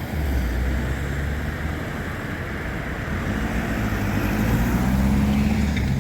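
Road vehicle engines running at idle, a steady low hum, with a second engine note coming in about three seconds in and rising slightly.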